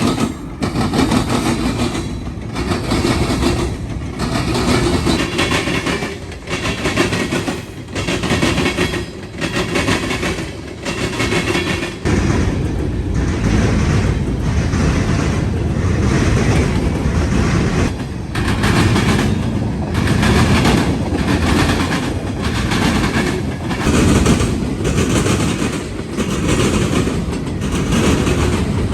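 Manifest freight train's cars rolling past close by, with the wheels clattering over the rail joints in a steady, repeating rhythm.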